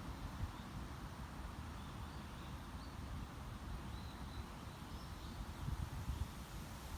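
Summer wind outdoors, heard as a gusting low rumble on the microphone over a soft hiss. Faint short high bird chirps come now and then.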